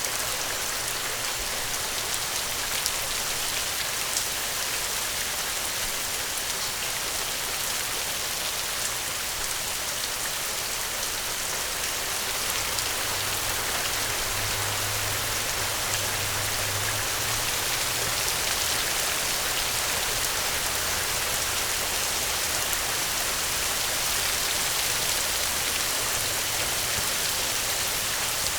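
Steady rain falling on a surface: an even hiss with scattered individual drop hits.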